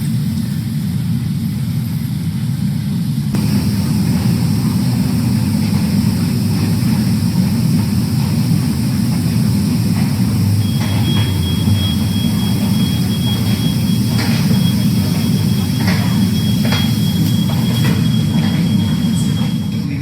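Steady low rumble of jet airliner engines. About three seconds in the sound changes, more hiss coming in above the rumble. From about halfway to near the end a thin steady high tone sits over it, with scattered light clicks.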